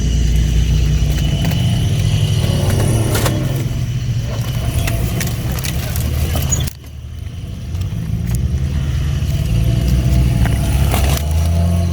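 Built off-road vehicle's engine running at low revs while rock crawling, with a few scattered knocks. The sound breaks off abruptly about two-thirds through and the engine comes back in.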